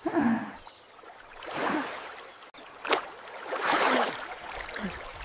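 Cartoon water sound effects: liquid sloshing and gurgling in several swells about a second apart, with short falling bloops and one sharp click about three seconds in.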